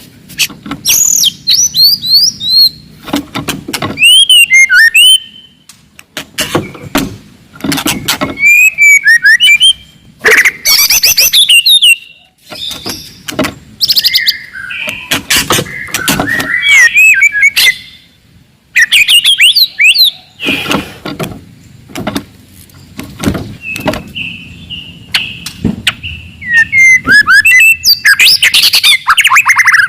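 Wild white-rumped shama singing a loud, aggressive song: varied phrases of sweeping whistles, fast trills and harsh chattering notes, one after another with short pauses between them.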